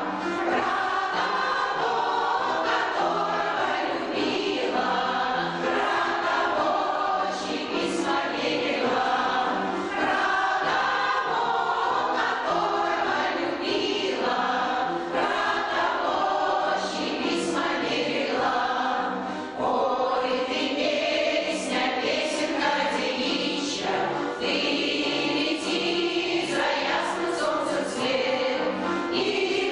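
Amateur veterans' folk choir singing a song together, many voices.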